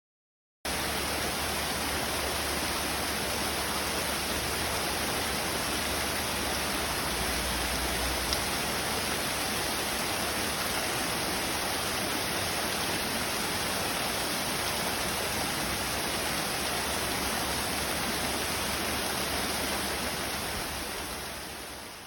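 Small stream flowing, a steady rushing of water that cuts in just after the start and fades out at the very end.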